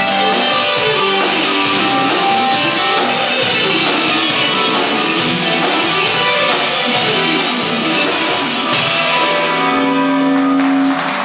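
Live rock band playing, led by guitar with sliding, bending notes, ending on a long held note near the end as the song finishes.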